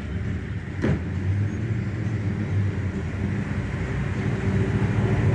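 Car engine running close by, a steady low hum that grows louder near the end as the car moves, with one sharp click about a second in.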